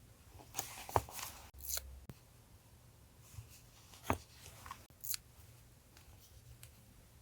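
Paper and stationery handled by hand: scattered short clicks, taps and rustles, busiest in the first two seconds, with single sharper clicks about four and five seconds in. A faint steady refrigerator hum runs underneath.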